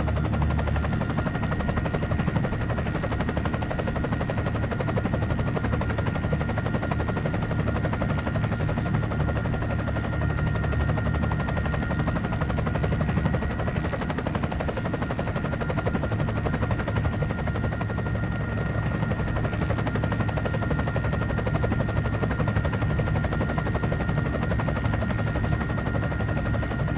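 Steady drone of a helicopter running, a low rumble with a constant high whine over it and no change throughout.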